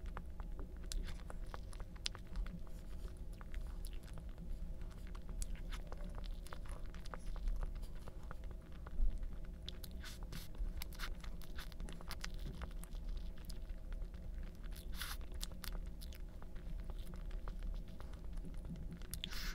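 A person chewing and biting food close to the microphone, in many small sharp crunches and clicks over a steady low hum, with one louder crunch about halfway through.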